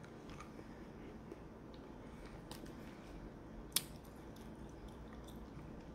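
Faint mouth sounds of someone chewing a soft gummy candy, a passion fruit Sour Patch Kid, with a few small wet clicks and one sharper click a little under four seconds in.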